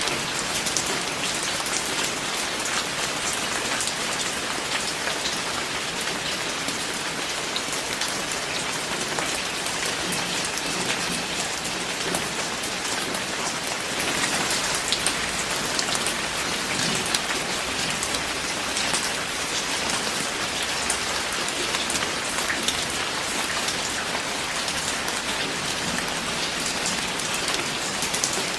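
Steady, heavy rain falling on a surface, a constant hiss dense with the sharp patter of individual drops.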